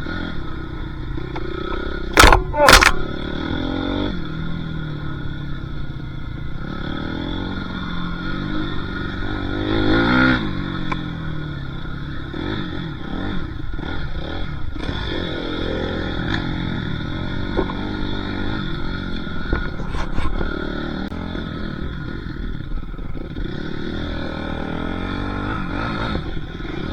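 Dirt bike engine running and revving up and down, its pitch rising and falling through the gears. Two sharp knocks come close together about two seconds in.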